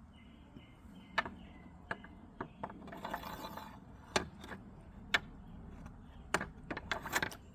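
About a dozen sharp clicks and taps at irregular intervals over a low steady background.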